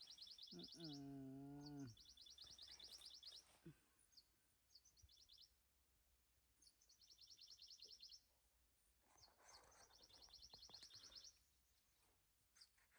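A bird trilling: rapid high-pitched trills in bouts of about a second and a half, repeated five times, with a low drawn-out hum for about a second and a half early on.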